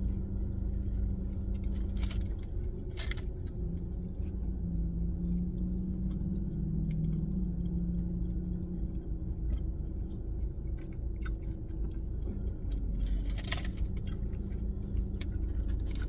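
A person biting into and chewing a mouthful of burger with crunchy toppings, with a few short crisp crunches, about two and three seconds in and again near the end. A steady low hum from the car cabin runs underneath.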